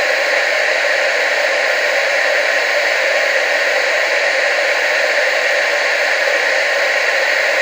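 Television static: a steady, unbroken hiss of noise, strongest in the middle and upper range with little bass.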